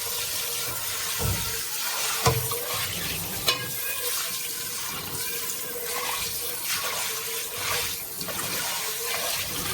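Tap water running into and over a nonstick pan in a sink as it is rinsed clean after frying, with a couple of sharp knocks about two and three and a half seconds in.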